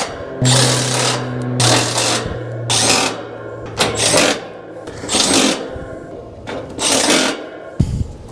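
A handheld power tool running in a series of short bursts, about one a second, with a steady motor hum through the first few seconds.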